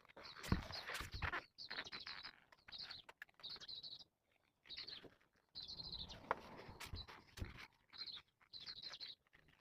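A cat chewing its food in short, irregular bouts, each with a high, squeaky, chirp-like scratching over the crunch. The squeak is his teeth scraping together, because he has no front teeth.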